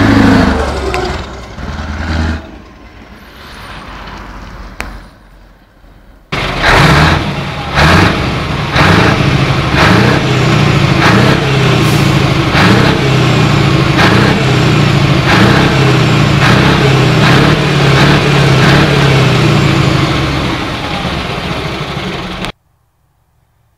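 Scania 144-530's 14-litre V8 diesel running loudly under load, with an even pulsing about every three-quarters of a second. It starts suddenly after a quieter stretch and cuts off abruptly near the end. In the first couple of seconds another loud sound dies away.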